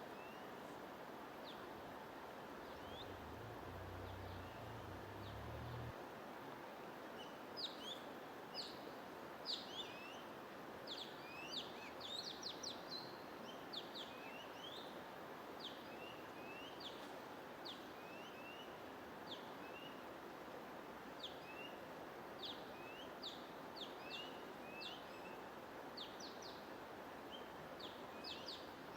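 Songbirds chirping in quick, sharp, downward-sweeping notes, sparse at first and then busy from about a quarter of the way in, over a steady white-noise hiss.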